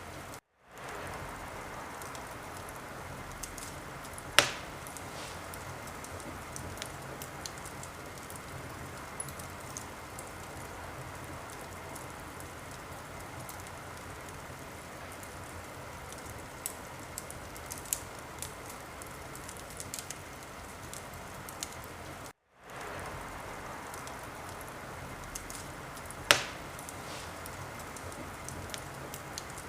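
Wood fire burning in a fireplace: a steady hiss with frequent small crackles and two sharp, loud pops, one about four seconds in and one near the end. The sound cuts out to silence for a split second twice, near the start and about two-thirds of the way through.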